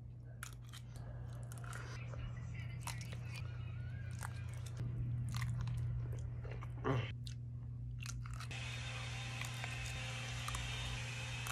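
Close-up chewing and biting of a mouthful of mac and cheese off a metal fork: scattered wet mouth clicks and smacks, with one louder smack about seven seconds in. A steady low hum sits underneath, and a steady hiss comes in after about eight and a half seconds.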